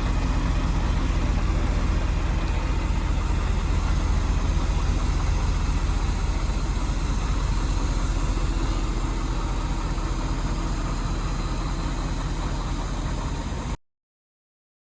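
Scania R520 truck's 16.4-litre V8 diesel engine idling steadily; the sound cuts off abruptly near the end.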